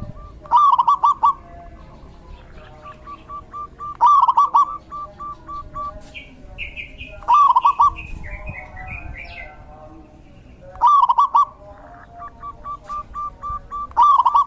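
Zebra dove (perkutut) singing its cooing song: a loud, quick run of warbled coos five times, about every three and a half seconds, with strings of soft, quick notes at the same pitch in between. A higher-pitched bird chirps briefly in the middle.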